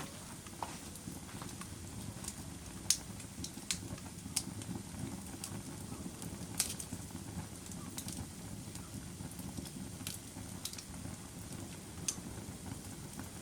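Wood fire burning in a fireplace: a steady low rumble of the flames with sharp crackles and pops scattered irregularly, the loudest about three seconds in and again near the middle.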